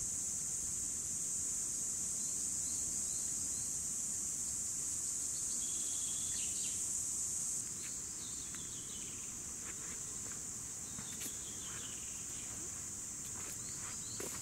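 Cicadas singing: a continuous high-pitched shrill buzz that steps down a little in loudness just past halfway.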